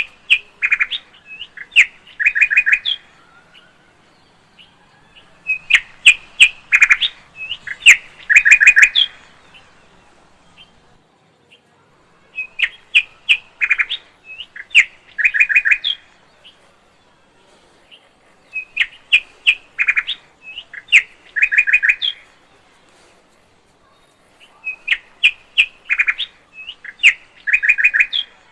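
Lovebirds chirping in bouts of quick sharp chirps and buzzy notes, each bout about three seconds long and coming round about every six seconds, with short quiet gaps between.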